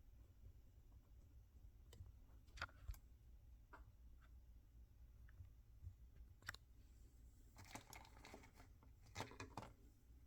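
Faint handling of toy packaging: a few small clicks, then two short bursts of crinkling and tearing wrapper in the last few seconds.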